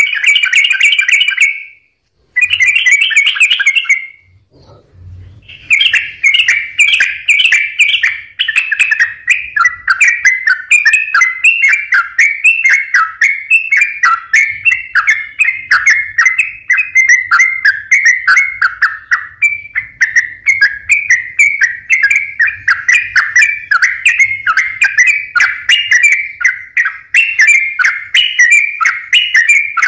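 Yellow-vented bulbul (trucukan) singing nonstop in fast, bubbly chattering phrases. The song breaks briefly about two seconds in and again for a second or so around four seconds, then runs on unbroken.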